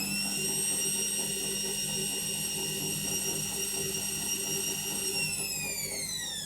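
Indesit My Time washing machine's drum motor whining at spin speed. The high whine holds steady, then winds down in pitch near the end as the drum slows.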